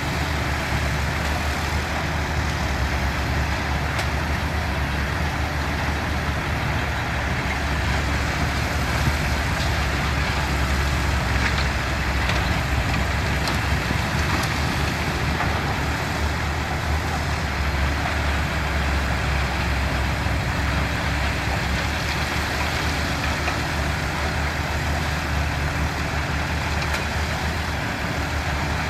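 Heavy earthmoving machinery (bulldozers and dump trucks) with their engines running at work: a steady, continuous low rumble with noise spread over the whole range and no distinct knocks or pauses.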